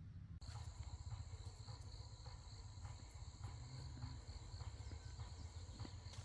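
Steady high-pitched insect chorus that starts suddenly about half a second in, over a low rumble and a scatter of faint clicks.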